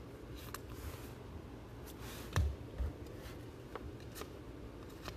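Faint handling sounds of trading cards: scattered light clicks and rustles, with two soft thumps a little over two seconds in.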